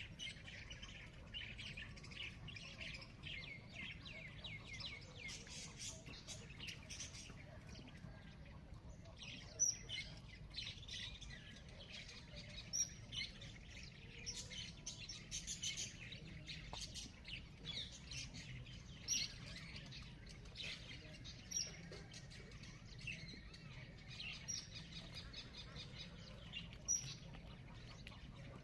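Small birds chirping in a dawn chorus, with many overlapping quick calls and a short high note repeating every couple of seconds. A low steady rumble runs underneath.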